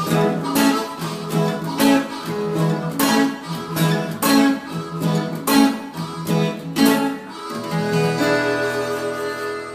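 Acoustic guitar strumming a steady blues rhythm, then ending on a final chord, struck about seven and a half seconds in and left to ring and fade.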